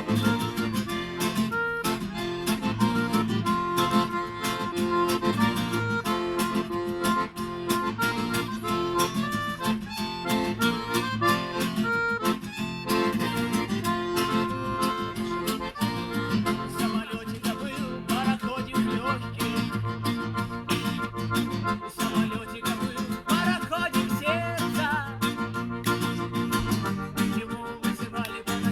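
Acoustic guitar strumming with a harmonica playing the melody: an instrumental break in a folk-rock song.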